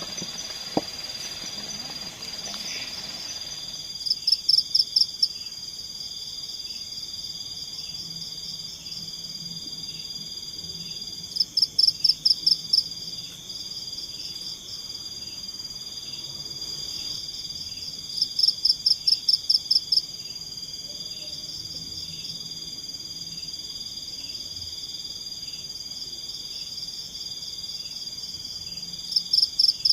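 Forest chorus of insects and frogs: a steady high-pitched insect drone with softer regular pulsing beneath it. About every seven seconds comes a loud burst of rapid chirps, six to eight in quick succession, four times in all.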